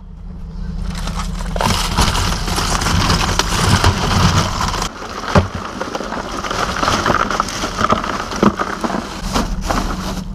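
Vehicle noise: a steady low hum under a loud rushing hiss, fading in over the first couple of seconds, with scattered clicks and crackles.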